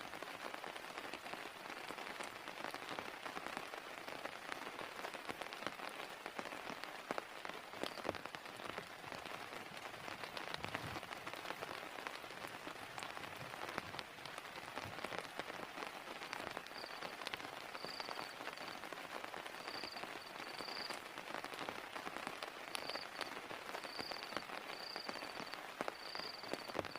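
Heavy rain falling steadily, with individual drops striking as sharp ticks. From about two-thirds of the way through, a faint short high chirp repeats roughly once a second over the rain.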